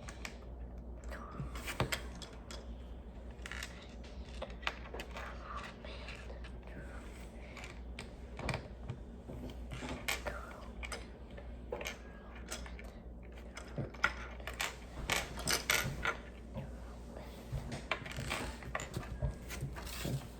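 Small plastic Lego pieces clicking and rattling as they are handled and pressed together, with irregular sharp clicks that bunch up around two thirds of the way through.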